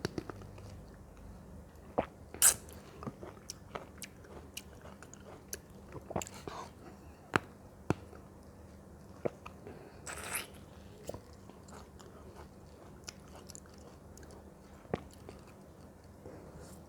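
Close-miked eating of fruit: bites and chewing, with sharp crunches and mouth clicks scattered through. The loudest crunches come about two and a half seconds in and again about ten seconds in.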